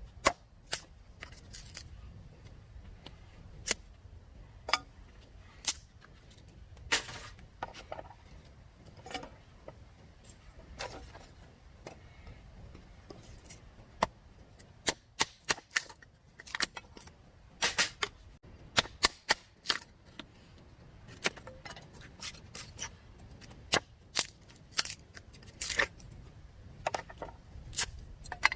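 Irregular sharp clicks and knocks, scattered at first and coming in closer clusters through the second half.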